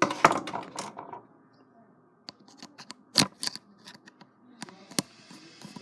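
Small hand tools clicking and scraping on a small electrical plug as a wire is looped and tightened onto its screw terminal. There is a busy patch of handling noise in the first second, then scattered sharp clicks.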